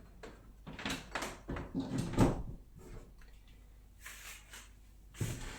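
Handling noises at a microwave: a run of knocks, clunks and scrapes as cleaned parts are fitted back in place, the loudest knock about two seconds in, then a few fainter taps.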